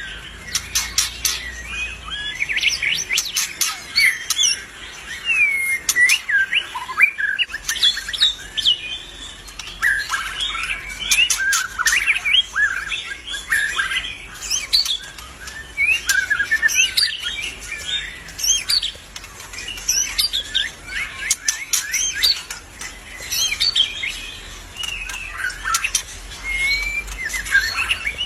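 White-rumped shama singing continuously: a fast, varied run of whistled phrases, rising and falling, mixed with sharp clicking notes.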